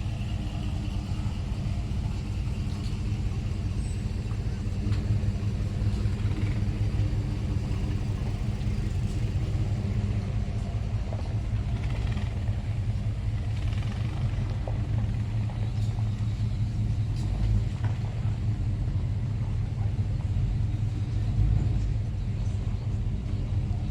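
Car engine idling, a steady low rumble at an even level.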